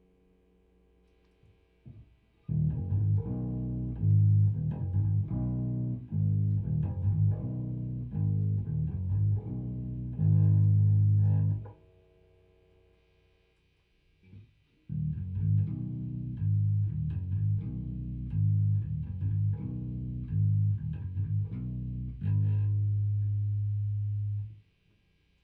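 Electric bass tuned down a half step, played through a Fender Rumble 100 V3 bass combo amp. Two riffs of plucked low notes, each ending on a long held note, with a pause of about three seconds between them.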